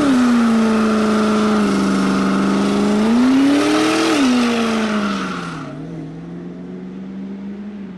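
Ford Lightning pickup's engine held at high revs during a burnout, with the spinning rear tyres screeching; the revs rise briefly about three seconds in and fall back. A little past halfway the throttle is let off: the tyre noise cuts out and the engine drops to steady, lower running.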